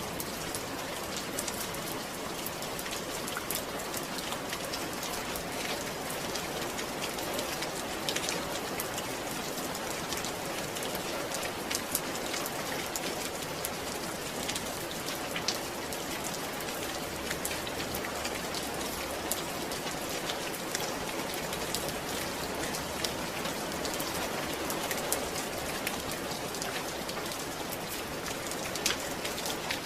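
Steady rain falling on a surface, with individual drops pattering throughout.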